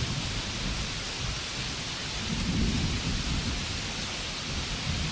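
Steady rainfall, an even hiss, with a low rumble underneath that swells a little over two seconds in.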